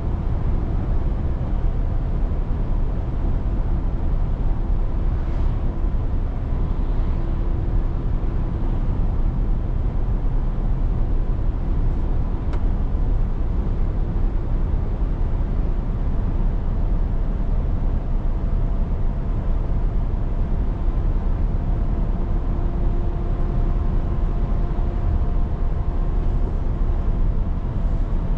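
Scania 500S truck driving at a steady pace: a continuous low engine drone and road noise with faint steady whines. Level and pitch change little throughout.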